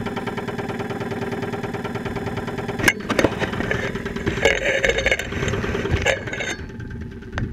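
2001 Saturn SL2's 1.9-litre four-cylinder engine idling with a knocking noise, picked up through a stethoscope microphone; the engine developed this loud noise after being run with very low oil. A few sharp clicks come about three seconds in, and the sound drops quieter near the end.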